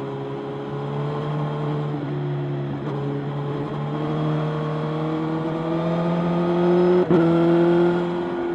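Motorcycle engine running under way, its pitch climbing gradually as it accelerates, with a brief break about seven seconds in before it carries on louder.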